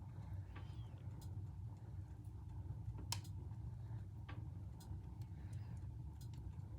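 Fire in an indoor fireplace crackling: irregular sharp pops and ticks, the loudest about three seconds in, over a steady low hum.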